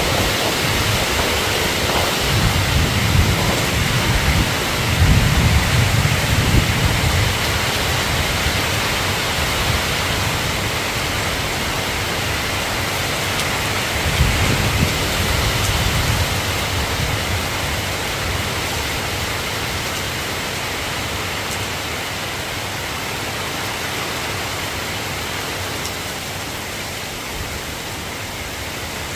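Steady rain falling, an even hiss, with low rolling thunder swelling in the first few seconds and again about halfway through before the rain eases slightly.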